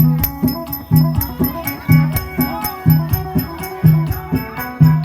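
Isan phin lute plucked in a lively, steady folk rhythm, with repeating low notes about twice a second over a bright ticking percussion beat about four times a second.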